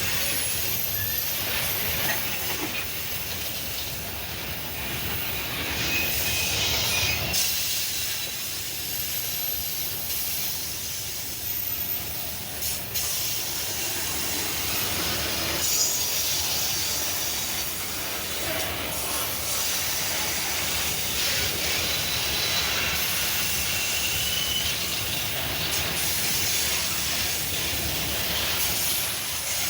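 Loaded freight wagons of a grain train rolling past on the downhill grade: a steady hiss of wheels and brakes on the rails, with brief high wheel squeals now and then.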